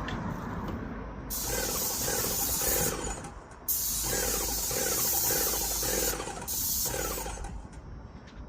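Paint spray gun spraying in three hissing bursts: one starting about a second in, a longer one after a short gap, and a brief one near the end.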